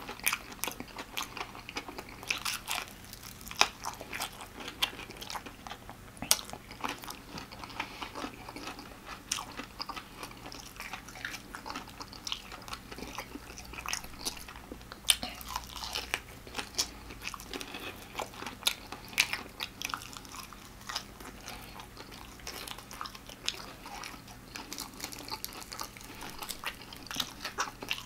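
Chewing and biting into extra-crispy fried chicken, with irregular sharp crunches of the breading all through.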